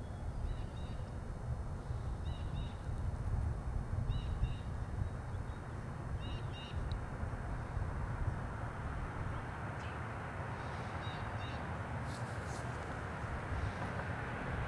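A bird calls in short paired notes, about five times, over a steady low rumble. In the second half, the tyre and engine noise of an approaching car builds.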